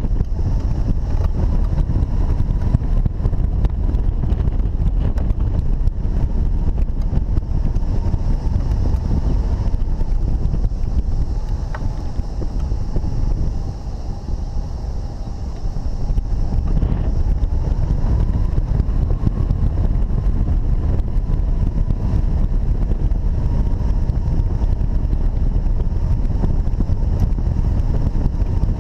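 Wind rushing over the microphone in hang glider flight: a steady heavy rumble that eases briefly about halfway through, with a faint thin steady tone running under it.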